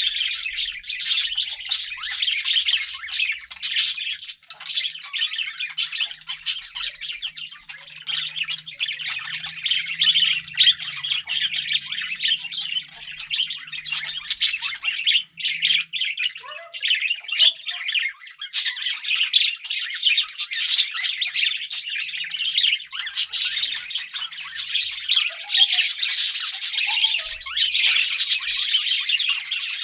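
Budgerigars (parakeets) chattering continuously, a dense warble of many short chirps and squawks.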